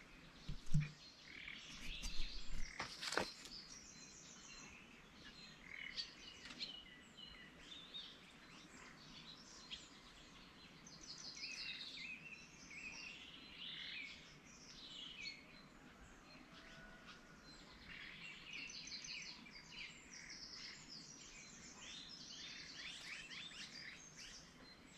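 Small birds chirping and calling, faint. A couple of brief knocks come in the first few seconds.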